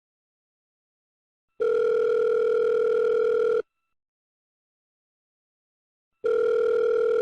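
Telephone ringback tone: a steady low tone sounding in two-second rings with pauses of about two and a half seconds, twice. The call is ringing out and has not yet been answered.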